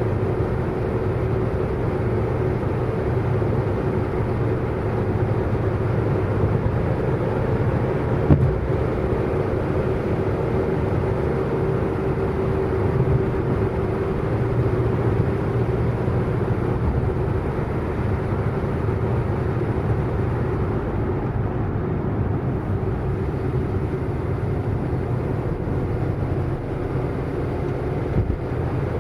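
Car driving at a steady high speed: a constant drone of engine and road noise with a steady hum in it, and one sharp tick about eight seconds in.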